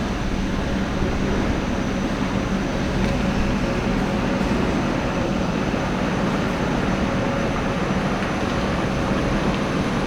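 Steady mechanical rumble with hiss and a faint low hum, unbroken throughout.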